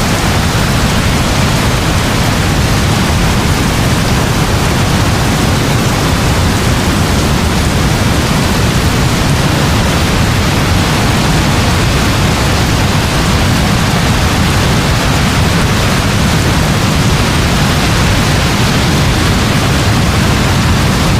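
Heavy rain falling steadily: a dense, even rush with a deep low end and no breaks or single strikes.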